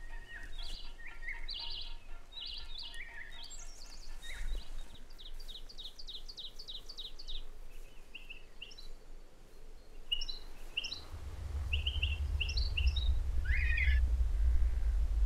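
Songbirds chirping in woodland, with quick series of short repeated calls. About eleven seconds in, a deep low rumble swells up under them and becomes the loudest sound.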